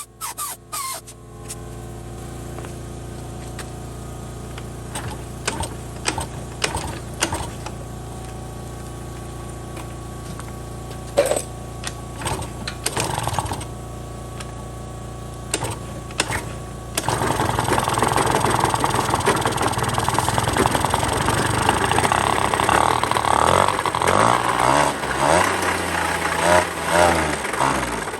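Honda Live Dio AF34 scooter's 50cc two-stroke engine running at a steady idle with scattered clicks and knocks, then revved up and louder from about 17 seconds in, its pitch rising and falling near the end. The engine is being run to check an abnormal engine noise.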